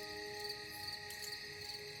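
Crickets chirping in a steady, regular pulse about every half second, over a soft, sustained ambient music drone.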